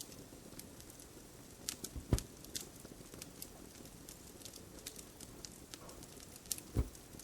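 Wood fire crackling, with scattered sharp snaps and two louder pops about two seconds in and near the end.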